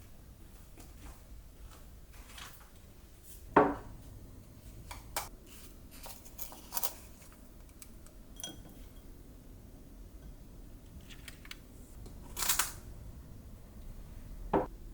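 Household objects being handled and set down: a sharp knock, a scatter of light clicks, a brief clink with a short ringing tone, a short rustling scrape, and a last knock near the end.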